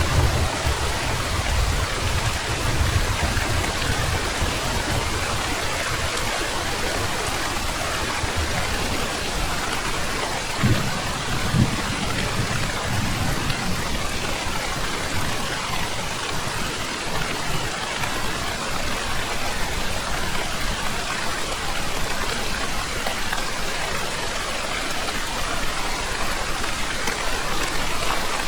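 Steady heavy rain falling, with low rumbles of thunder at the start and again about ten to thirteen seconds in.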